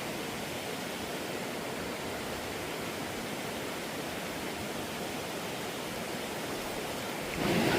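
Steady rush of flowing stream water. Just before the end a louder, deeper rushing noise cuts in.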